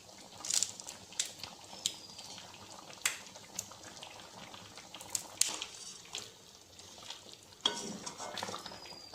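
A metal spatula clinking and scraping against a kadai, stirring chicken with a cup of hot water just added, with a faint bubbling simmer underneath. Short irregular clicks and knocks come every second or so.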